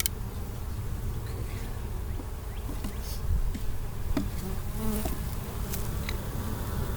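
Honey bees from an opened hive buzzing steadily in a dense, low hum as their comb is handled.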